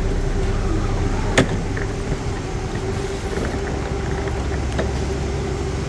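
Bus running, heard from inside: a steady low rumble with a constant hum, and one sharp click about a second and a half in.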